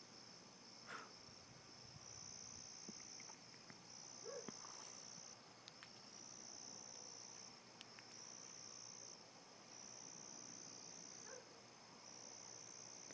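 Crickets chirring on a summer night, faint. One high trill swells in repeated bursts of about a second and a half with short pauses between, over a steadier background chirr.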